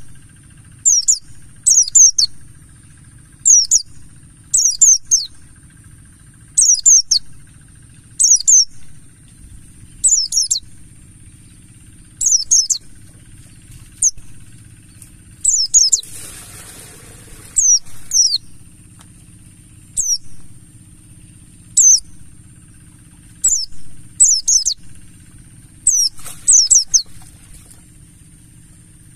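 Pleci buxtoni white-eye singing: short, high, quickly falling twittering phrases repeated about every one and a half to two seconds. There is a brief rustling noise about halfway through, over a faint steady hiss.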